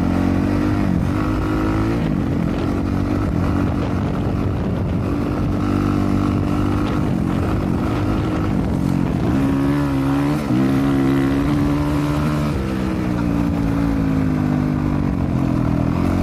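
Dirt bike engine running under way, its pitch rising and falling repeatedly as the throttle is opened and closed.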